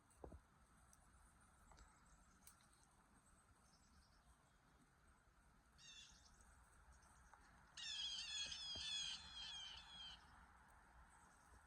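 A songbird calling: a short series of quick high notes about six seconds in, then a louder run of rapid repeated notes, about five a second, lasting a little over two seconds, over a faint outdoor background.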